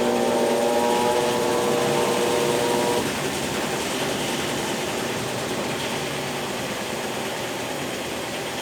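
Consul Facilite CWC10 washing machine motor whining during the wash agitation, its pitch creeping up slightly, then cutting off about three seconds in. A steady rushing noise from the tub carries on during the pause between agitation strokes.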